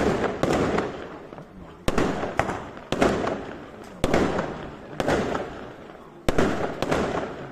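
A traca of fireworks going off: loud sharp bangs about once a second, some in quick pairs, each echoing away before the next.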